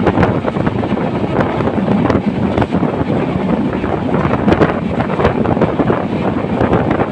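Passenger train running at speed: a steady rumble full of rapid rattling and clattering, with wind buffeting the microphone.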